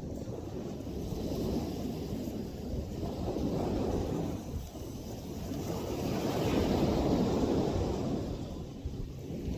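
Ocean surf washing in, with wind buffeting the microphone; the rushing noise swells and falls back, loudest a little past the middle.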